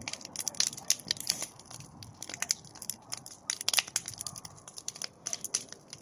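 Campfire crackling: burning wood giving off many sharp, irregular snaps and pops.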